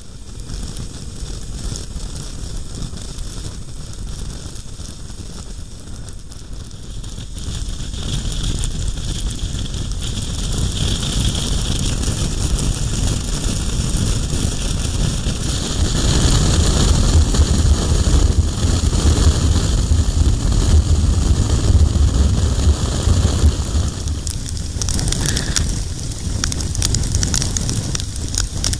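Heavy wind noise buffeting the microphone over a low rumble, getting louder in steps about 8 and 16 seconds in.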